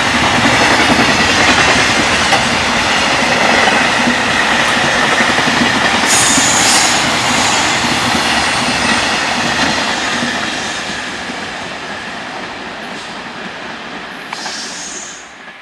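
Freight train rolling past at speed, wagon wheels clattering over rail joints with a steady high whine. The sound fades from about two-thirds of the way in and drops away sharply just before the end.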